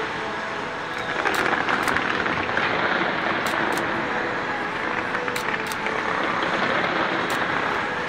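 Distant fireworks display going off without a break: a steady wash of crackle and rumble with sharp cracks scattered through it.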